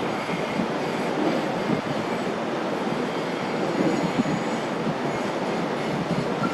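Steady rumbling noise of a 40 m carbon-fibre catamaran fast ferry underway, its engines and water rushing together.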